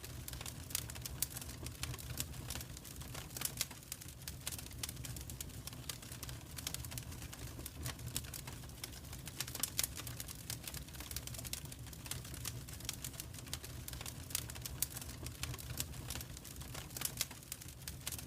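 Wood fire crackling in a fireplace: a steady stream of irregular sharp snaps and pops over a low, even rumble.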